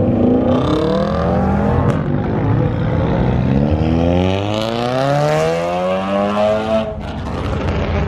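A car accelerating hard past, its engine revving up through a gear. The pitch drops at an upshift about two seconds in, climbs again for several seconds, then cuts off sharply near the end as the driver lifts off.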